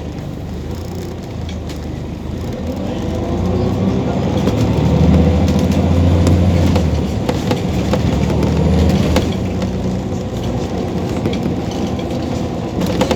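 Scania OmniCity city bus engine accelerating: it rises in pitch and grows louder over the first few seconds, then eases off about nine seconds in.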